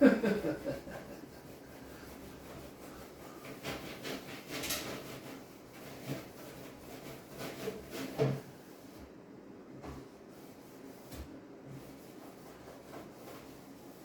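A sharp knock as something is set down on top of a microwave, then on-and-off rubbing and scrubbing with a few light knocks, fading to quiet handling noise in the second half.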